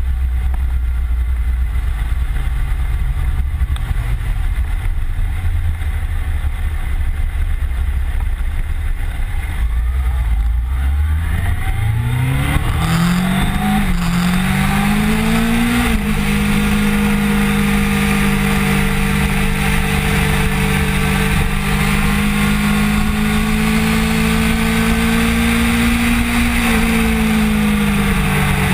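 Kawasaki Ninja sport bike engine at low revs for about ten seconds, then accelerating with a rising whine, a shift partway through, and holding a steady high-revving pitch, with a slight dip near the end. Wind rush on the bike-mounted microphone grows as it speeds up.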